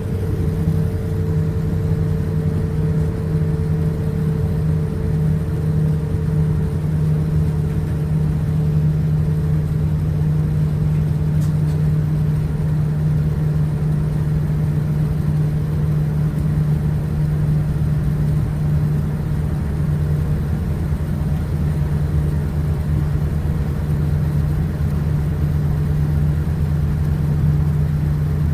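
Steady low rumble and hum of a Boeing 787-9 cabin with the engines running, heard from a passenger seat. A faint higher tone fades out about seven seconds in.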